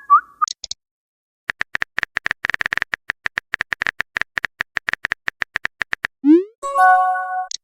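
Chat-app sound effects: a rapid run of phone-keyboard typing clicks for about four and a half seconds, then a short rising swoop and a chime-like message notification tone near the end.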